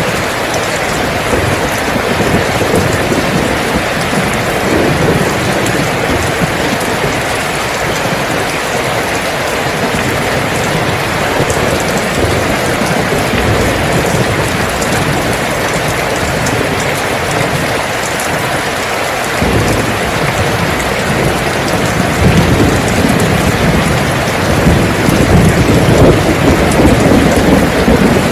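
Heavy rain falling steadily on a surface. In the second half a low rumble of thunder builds and grows louder toward the end.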